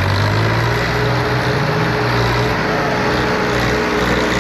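Diesel tractor engines running steadily, a low hum that holds an even pitch under a broad rush of noise.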